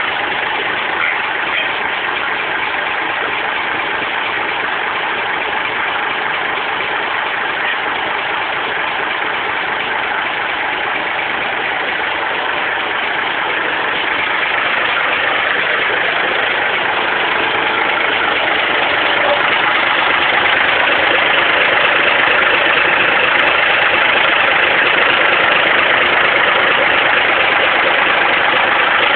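Tractor with a Saviem engine running steadily, growing louder about halfway through and holding there.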